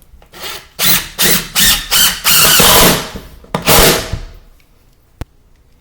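Power drill driving screws down into wood flooring. The motor runs in several short bursts, then one longer run of about a second, then a final short burst, ending about four seconds in. A single sharp click comes near the end.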